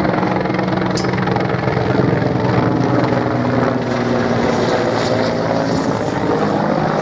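A Mi-24V Hind attack helicopter in flight, its twin turboshaft engines and rotors making a steady, loud drone of several held tones.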